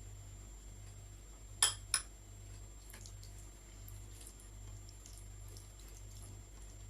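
Two quick sharp clinks of a utensil against dishware, a fraction of a second apart, about one and a half seconds in, with faint small ticks of eating around them.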